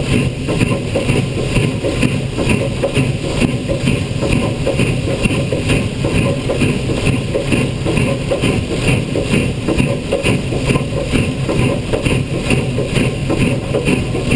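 Canadian Pacific 3716, a 2-8-0 steam locomotive, running with a steady rhythmic beat of about three a second over a constant low rumble.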